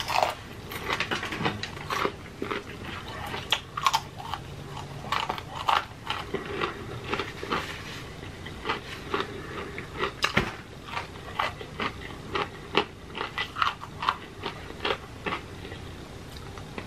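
Close-miked chewing of crispy fried chicken: the breading crunches in short, irregular crackles a few times a second.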